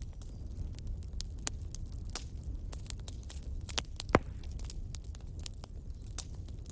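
Wood bonfire crackling: scattered sharp pops and snaps over a low steady rumble, with one much louder pop a little past four seconds in.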